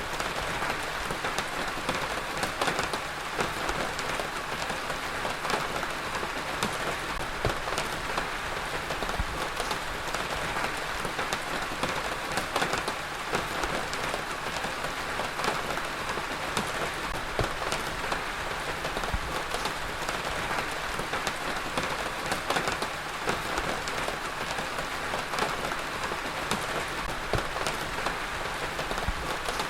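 Heavy rain falling steadily on a hard surface, a dense, even hiss with many small sharp drop splashes scattered through it.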